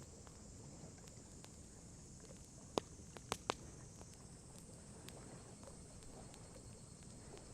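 Wood fire crackling softly, with three sharp pops close together about three seconds in, over a faint steady high hiss.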